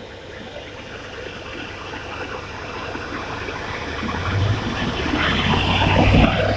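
Fire truck engine and water pump running under a pump test: a rushing noise that grows steadily louder, with a low engine hum coming in about four seconds in.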